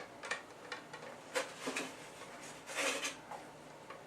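Light kitchen clatter: a string of small knocks and clicks, the sharpest right at the start, with a short scraping rustle about three seconds in.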